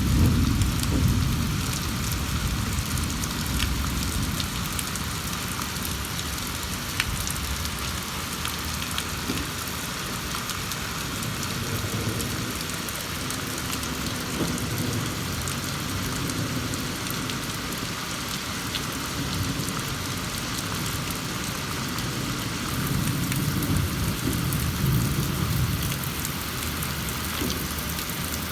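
Steady rain falling in a thunderstorm. A low rumble of thunder dies away over the first couple of seconds, and another rumble swells up and fades near the end.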